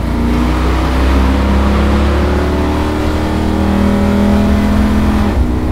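1969½ Dodge Super Bee A12's 440 Six Pack V8, heard from inside the cabin, pulling under throttle with its pitch climbing slowly; its note changes suddenly just past five seconds in.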